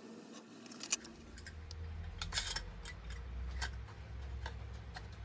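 Irregular small clicks and taps as the parts of a restored diecast toy Land Rover are handled and fitted together, over a low rumble that begins about a second in.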